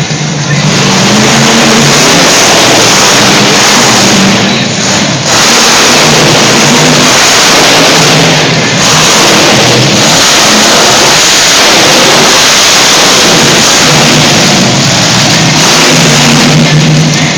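Monster truck engine revving hard and loud, the sound dipping briefly a few times as the throttle comes off and back on.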